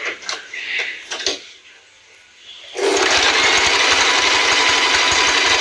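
A few light clicks and knocks, then about halfway in the Singer Heavy Duty 4423 sewing machine starts up and runs steadily at speed, stitching with a fast, even rhythm.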